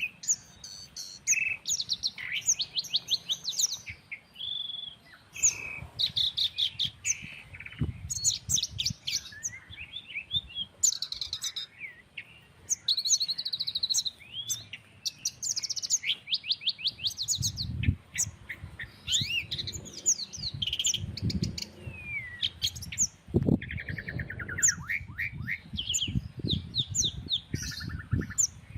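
Several songbirds singing and calling over one another, with rapid chirping trills and short whistled notes. A low, gusty wind rumble joins in the second half.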